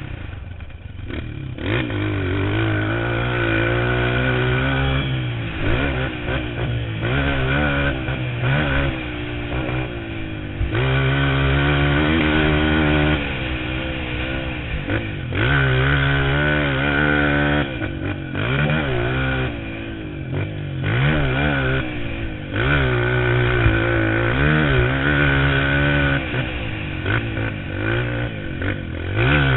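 Motocross bike engine revving hard and easing off over and over, its pitch climbing and dropping every few seconds as the throttle is worked.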